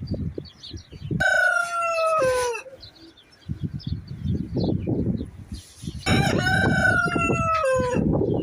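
A rooster crowing twice, each crow about a second and a half long and falling in pitch at the end; the first comes about a second in, the second about six seconds in. Low, dull thumps of unclear origin run underneath, with faint small-bird chirps.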